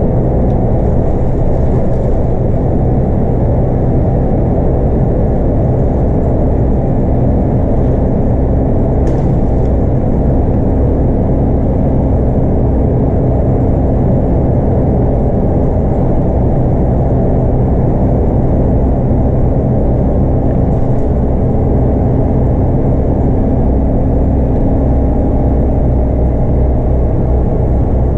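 Scania K230UB bus's 8.9-litre five-cylinder DC9 diesel running at a steady cruising speed, heard inside the cabin: a constant engine drone over road rumble, with no gear changes or revving.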